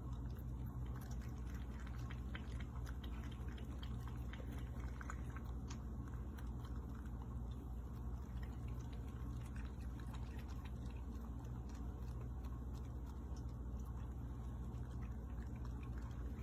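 Cat water fountain running: a steady low hum with water trickling. Small ticks come thick over roughly the first six seconds.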